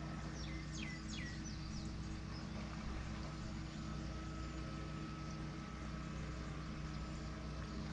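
Birds calling: a quick run of short, high, falling chirps in the first second or so, over a steady low hum.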